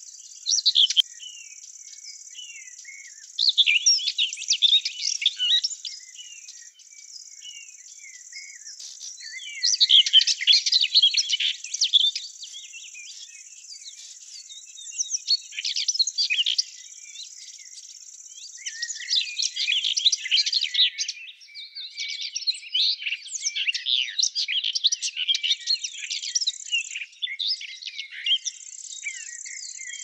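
Songbirds singing in bursts of rapid, high twittering phrases every few seconds, becoming nearly continuous in the last third, over a steady high-pitched buzz.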